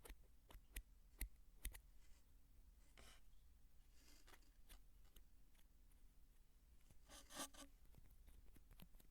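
Faint, close handling of dry soap: a few sharp clicks in the first two seconds, scattered light scratching, then a short crunchy crumble about seven seconds in.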